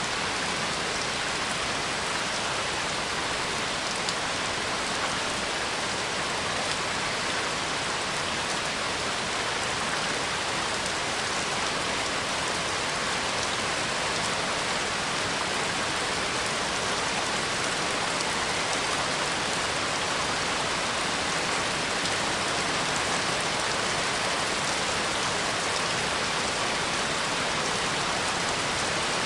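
Steady rain falling, an even hiss of drops on surfaces with no change in strength.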